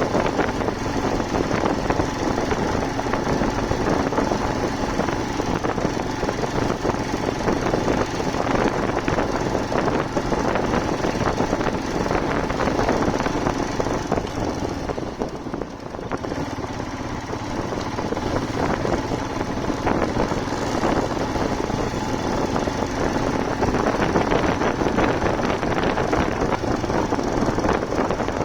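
Royal Enfield Himalayan motorcycle's single-cylinder engine running steadily under way, mixed with road noise; it eases off briefly about halfway through.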